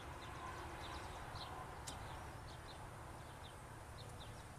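Faint outdoor ambience with a bird giving short, high chirps over and over, about three a second. A single sharp click sounds about two seconds in.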